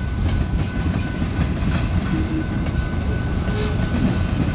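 Freight cars of a slow manifest train rolling past: a steady rumble of steel wheels on rail, with light clicking as the wheels cross rail joints.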